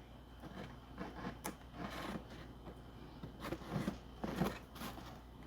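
Faint scattered taps, clicks and rustles of handling, a little louder and busier between about three and a half and four and a half seconds in.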